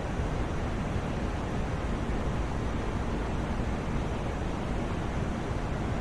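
Steady sleep-aid white noise, an even hiss heavier in the low end than in the highs, with no change, tone or break.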